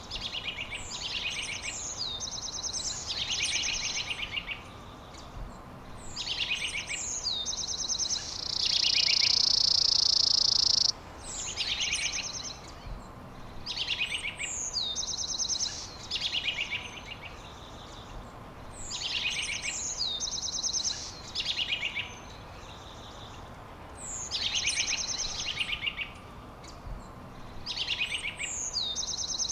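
A songbird singing one short phrase over and over, every second or two: a quick downward whistle followed by a rapid buzzy trill, over a steady background hiss. About eight seconds in, a loud, even, high buzz holds for about two and a half seconds, then cuts off.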